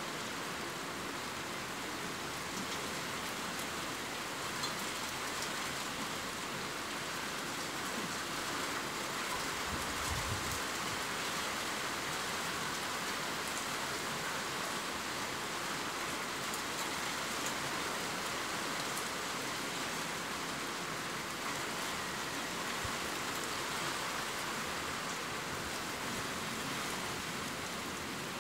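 Heavy rain downpour falling steadily: a dense, even hiss with scattered drop ticks.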